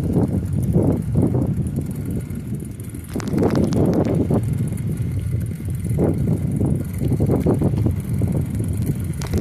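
Bicycle being ridden, its frame and parts rattling irregularly over a steady low rumble of tyres and wind buffeting the microphone.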